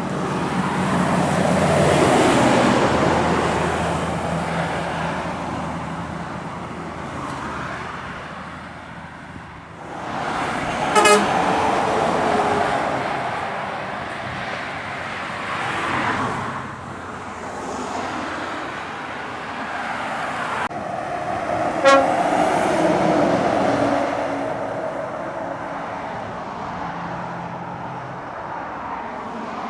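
Heavy lorries passing one after another while climbing a long grade under load. Two short air-horn toots, one about a third of the way in and one about three quarters in.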